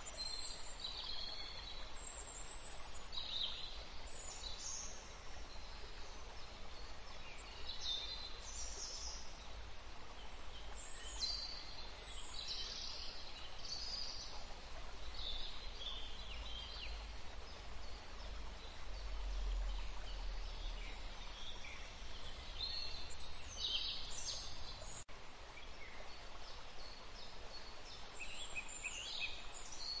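Birdsong: several wild birds chirping and trilling in short, scattered calls over a steady outdoor background hiss.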